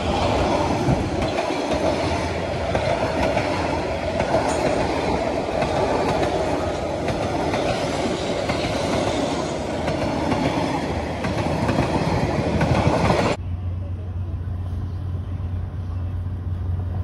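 Railway cars of a Vietnam Railways train passing close by, wheels rumbling and clattering along the rails at a steady level. The sound cuts off suddenly about thirteen seconds in, leaving a quieter low hum.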